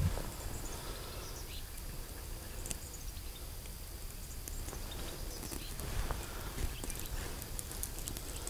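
Faint scattered crackles and clicks of a small campfire being lit from tinder and thin dead twigs.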